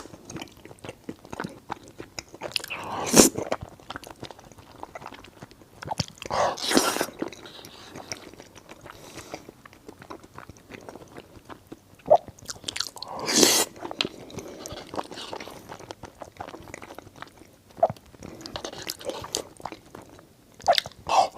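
Close-up chewing and biting of someone eating eel: wet mouth clicks and smacks, with a few louder bursts about 3, 7 and 13 seconds in.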